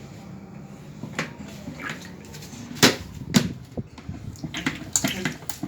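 Small plastic toy washing machine and doll clothes being handled with water: a few sharp knocks, the loudest about three seconds in, then a run of light taps and clicks near the end, over a faint splash of water.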